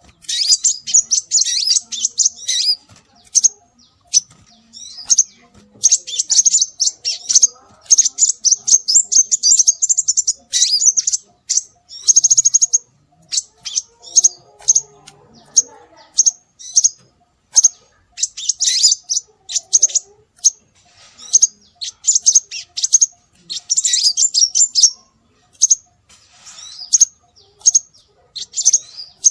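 Scarlet minivet calling: rapid series of high, thin chirps and short trills in clusters of varying length, separated by brief pauses.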